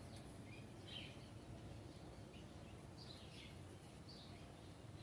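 Faint birds chirping: short, downward-sliding chirps every second or so over a quiet background hiss.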